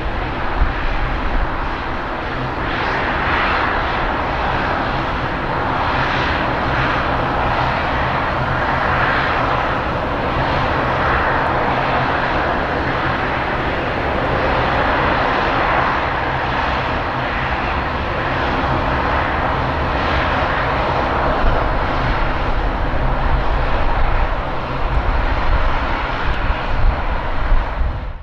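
Jet airliner engines running loud and steady, a dense rushing noise over a low rumble, which cuts off abruptly at the end.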